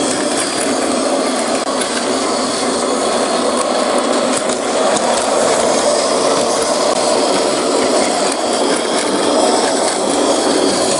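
Battery-powered Plarail toy train running on plastic track: a steady grinding and rattling of its small motor, gears and wheels.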